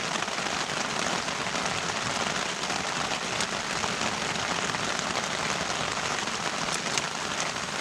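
Heavy, torrential rain drumming steadily on the tent and tarp fabric, with the odd individual drop ticking out.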